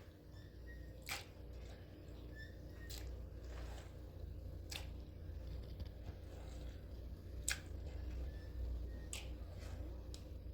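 A handful of sharp clicks, five in all at irregular gaps of one and a half to two and a half seconds, over a steady low hum.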